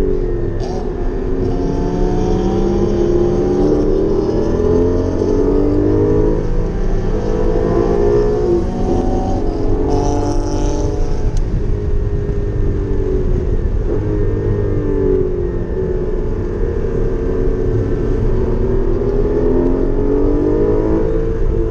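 Porsche Cayman GT4's flat-six engine at full lapping pace, revs repeatedly climbing and then falling away as it is driven hard through the gears.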